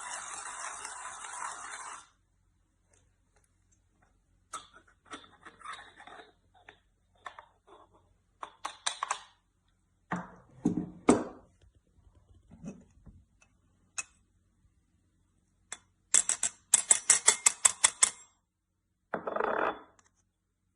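Small metal parts of a stainless-steel manual coffee grinder being handled, with scattered clicks and knocks. A steady noise stops about two seconds in, and a run of about ten quick clicks comes later on.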